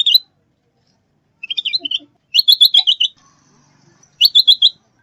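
A songbird calling in short clusters of rapid, sharp chirps, four clusters with brief gaps between them.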